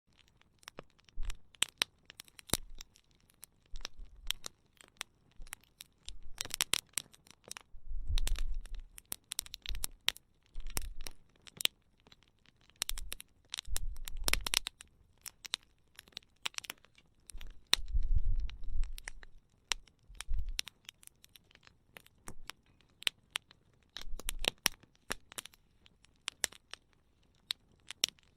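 Wood campfire crackling, with sharp snaps and pops at irregular intervals and several louder flurries lasting a second or two.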